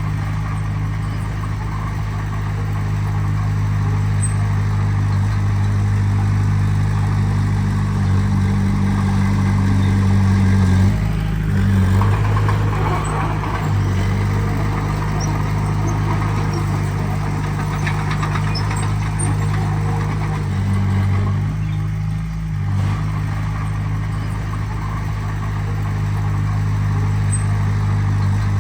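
Diesel engine of heavy earthmoving equipment running steadily, its note changing briefly about 11 and 22 seconds in, with rougher working noise in between.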